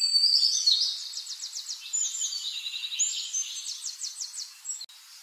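Birds singing: high chirps and quick trills of rapid repeated notes, one after another.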